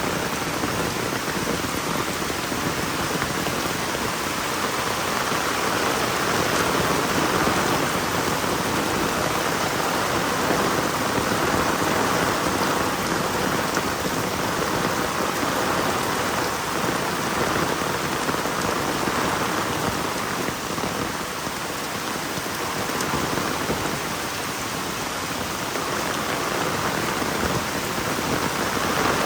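Heavy rain falling steadily, a dense even hiss of drops striking the ground and surfaces.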